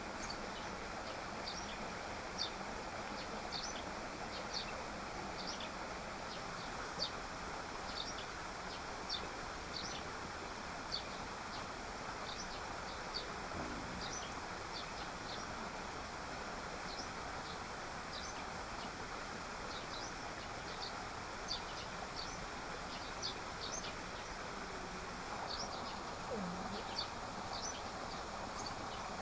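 Steady rush of a forest waterfall, with a bird's short, high chirps repeated every second or so over it.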